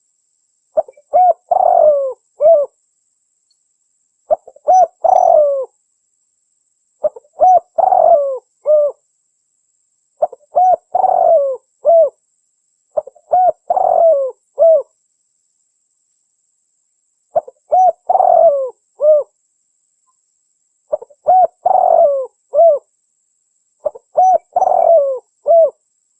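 Spotted dove (tekukur) cooing: eight phrases of several short coos each, repeating about every three seconds with a longer pause midway. This is a recorded call played as a lure to draw wild spotted doves.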